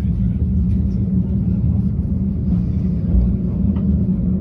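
Afrosiyob high-speed train running at speed: a steady rumble with a constant low hum and no sharp events.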